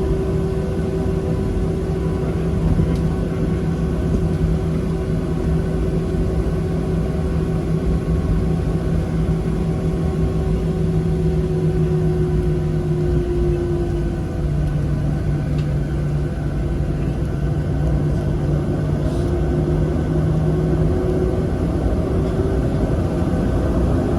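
Steady engine hum and rumble inside the cabin of a Boeing 737-700, its CFM56-7B turbofans running at low power. Two steady engine tones sit under the rumble and step slightly lower in pitch about halfway through.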